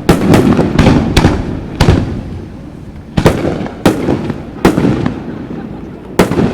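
Aerial firework shells bursting: a quick run of booms in the first two seconds, then single booms about every second or so, each trailing off in a low rumble.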